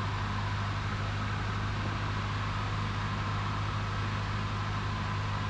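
Cabin drone of a 1977 Cessna 172N's four-cylinder Lycoming engine and propeller running steadily in flight, heard through the intercom, with a faint steady high tone over it.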